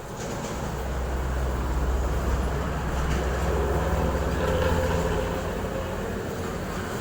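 Heavy truck engine rumbling, swelling louder through the middle and easing off near the end.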